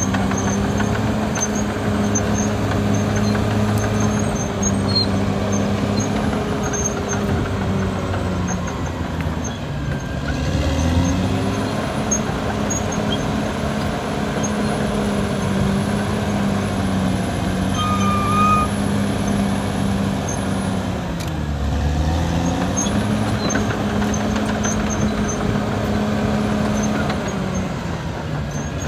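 Caterpillar D6R XL bulldozer's diesel engine running steadily. Its pitch sags and recovers about ten seconds in and again a little after twenty seconds, as the engine takes on and sheds load.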